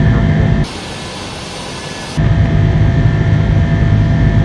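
Airbus A330 jet engine noise during the climb after takeoff. The heavy low rumble cuts out abruptly less than a second in, leaving a steady hiss for about a second and a half, then comes back just as abruptly.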